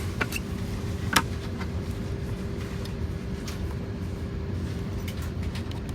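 Airliner cabin noise aboard an Airbus A320neo: a steady low rumble with a constant hum, and a few sharp clicks, the loudest about a second in.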